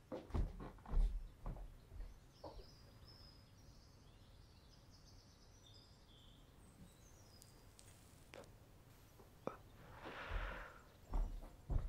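Faint birdsong: short, high chirps scattered through the middle of the stretch. A few soft knocks and handling sounds come in the first two seconds and again near the end, and a brief hiss about ten seconds in.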